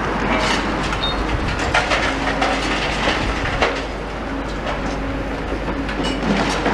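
Demolition excavators at work: a steady diesel engine drone with irregular clanks and knocks of metal and rubble being broken and moved.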